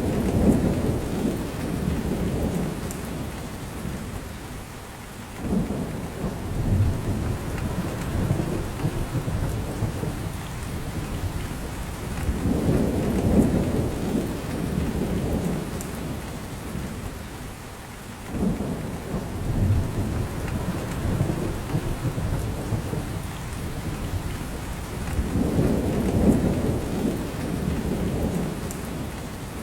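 Steady rain falling on a spruce forest, with drops dripping from the branches. A low rumble swells up and fades away about every six seconds.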